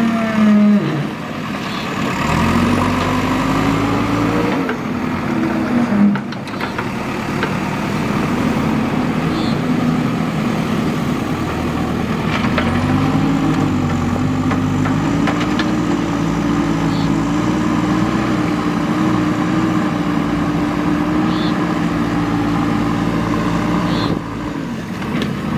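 Diesel engine of a JCB 3DX backhoe loader working, its engine speed rising and falling as the machine loads.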